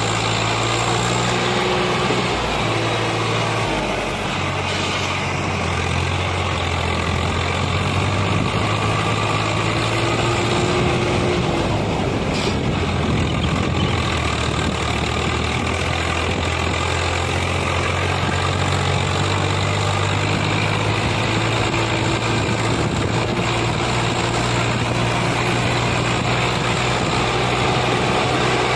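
Heavy diesel engine running steadily under load, its pitch shifting up and down a little.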